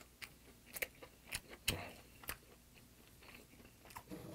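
Close-miked chewing of a mouthful of a fresh sea mustard (miyeok) wrap: soft, wet mouth clicks and smacks at an uneven pace, a few sharper ones in the first two seconds, then quieter.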